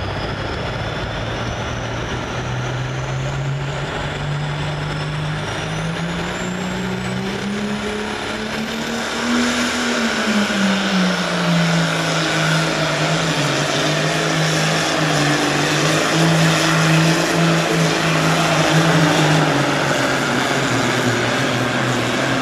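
Super farm pulling tractor's turbocharged diesel engine working hard under load down the pulling track. The engine note climbs to a peak about nine seconds in, then drops and holds steady as the sound grows louder. A high whistle rises in pitch just before the peak.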